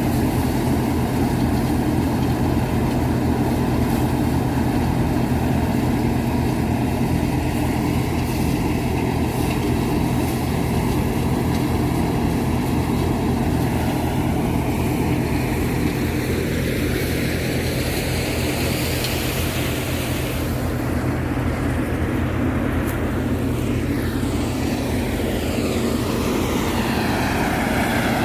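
Farmtrac 45 diesel tractor running steadily while it drives a basket-model thresher, a continuous low machine drone. Past the middle, a higher whine shifts in pitch.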